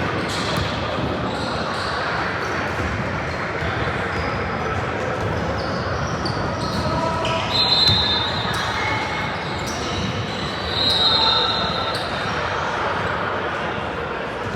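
Game sounds in a gym: a ball bouncing on the floor again and again, short high sneaker squeaks about halfway through and again a few seconds later, over the chatter of players and spectators.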